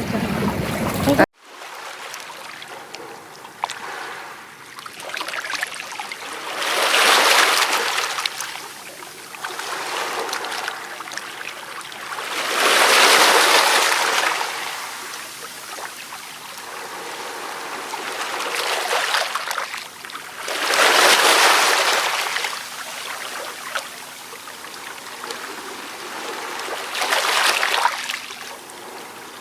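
Ocean waves breaking on a beach. The rush of surf swells up and dies away four times, about every six to eight seconds, over a steady background wash.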